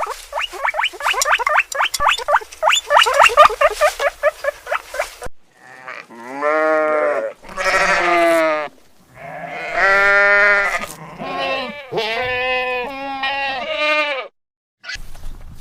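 A fast run of short, high, squeaky calls, about five a second, for some five seconds, then a series of about five long bleats from a farm animal such as a sheep or goat.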